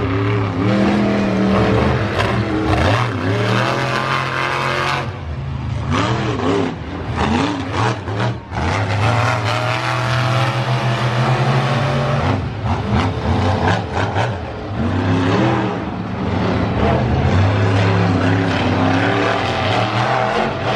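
Monster truck engine revving hard, its pitch rising and falling. The engine eases off briefly about five seconds in and again about twelve seconds in, then opens up again.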